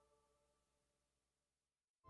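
Near silence: a gap between two pieces of background music.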